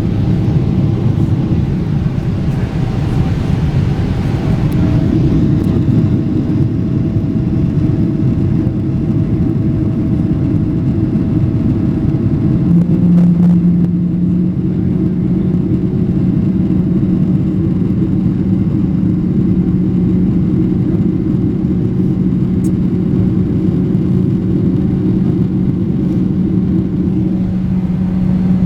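Cabin noise of a Boeing 777-300ER with its GE90 engines at power: a loud, steady engine and airflow rumble. A steady low hum joins it about halfway through.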